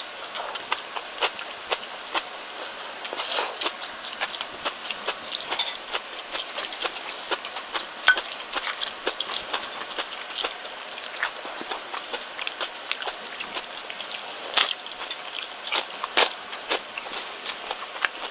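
A person chewing crunchy food, shredded raw cabbage among it: a dense run of small irregular crunches and clicks, with a few louder crunches about eight seconds in and again around fifteen to sixteen seconds in.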